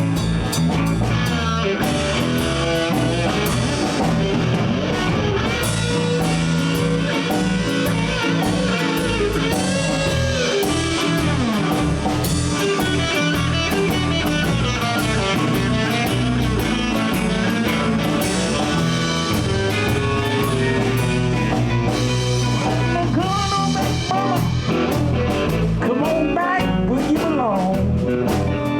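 Live blues band playing: guitars over bass and a drum kit keeping a steady beat.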